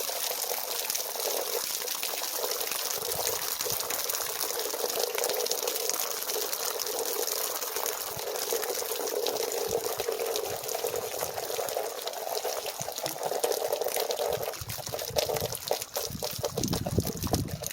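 Water gushing steadily out of an RV water heater tank through the open drain-plug hole as the tank drains. Near the end the flow turns uneven, with some low thumps.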